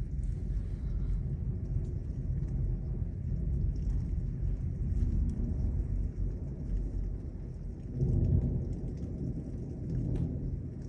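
Thunder rumbling over steady heavy rain, the rumble swelling loudest about eight seconds in.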